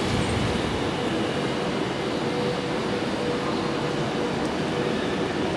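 Steady running noise of trains standing and moving at the station platforms, with a faint steady hum coming in about two seconds in.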